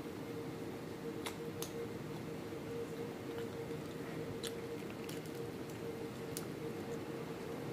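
Quiet eating sounds: soft chewing and a few scattered small clicks, over a steady hum.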